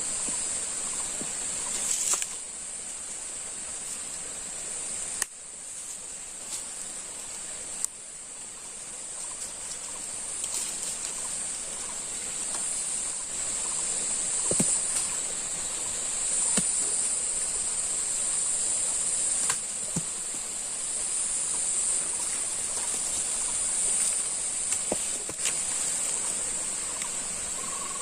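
Steady high-pitched drone of forest insects, cicadas or crickets, with scattered light clicks and snaps over it.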